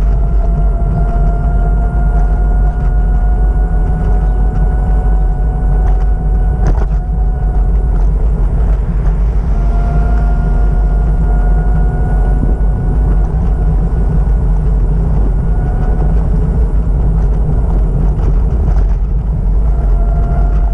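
Steady low rumble of a moving vehicle, with a faint whining tone that slowly rises in pitch and drops out now and then.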